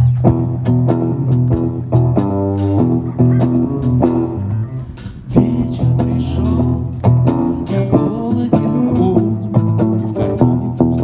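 Live rock band playing an instrumental blues-rock passage: guitar over a bass guitar line, with no singing.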